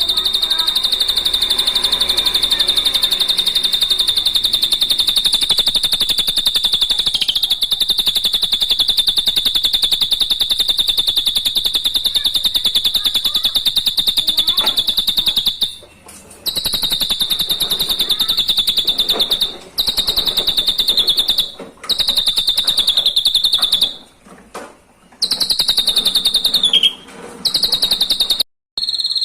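Drongo (srigunting) singing one long, very rapid trill held at a single high pitch. It runs unbroken for about the first half, then breaks off in several short pauses.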